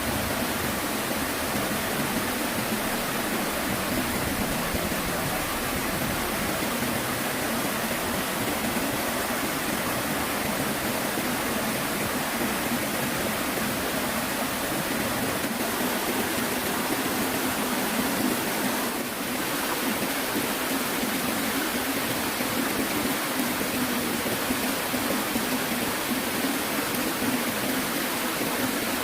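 Steady rushing of flowing water in a forest stream, an even hiss that does not change.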